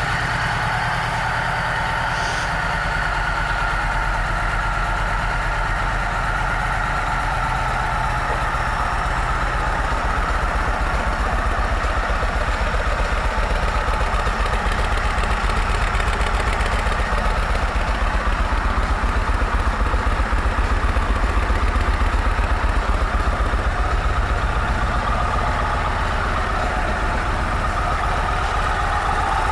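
Stock 2008 Yamaha Road Star Silverado's 1700 cc air-cooled V-twin idling steadily, a low even pulsing rumble, a little louder through the middle stretch.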